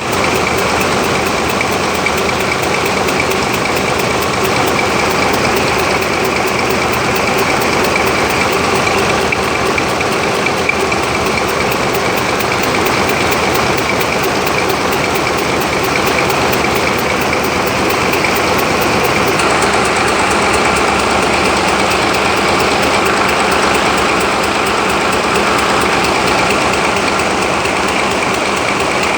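Ship's engine running steadily and loudly, a dense, fast mechanical clatter that holds the same speed throughout.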